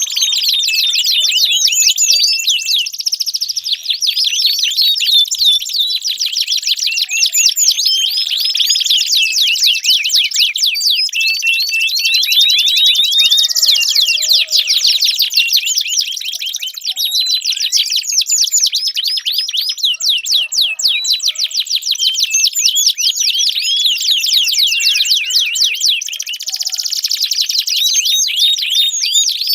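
Domestic canary singing a long, continuous, high-pitched song of fast rolling trills and chirps, with only brief breaks.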